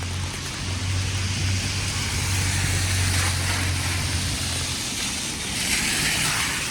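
A car passing on a wet, snowy road: a steady low engine hum, then a tyre hiss that swells about six seconds in and fades near the end.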